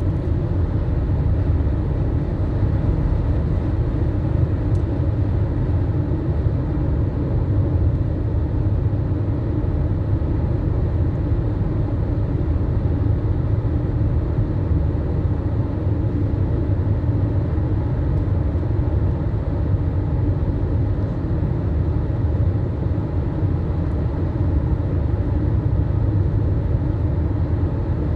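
2017 Mitsubishi Outlander's 2.0-litre four-cylinder engine and road noise during driving at speed, a steady low rumble. The owner reports the revs floating above 80 km/h, a fault not cured by throttle cleaning, new plugs and coils, or reflashing.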